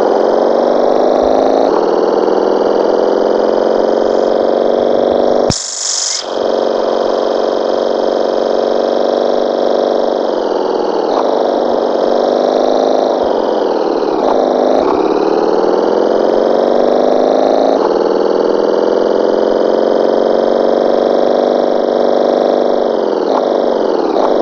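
Motorcycle engine running while riding, its revs climbing and dropping back several times.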